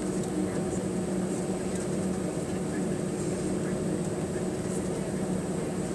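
Steady cabin noise inside an Airbus A320 near the rear, its two CFM56-5A3 turbofan engines running with an even hum and rushing noise.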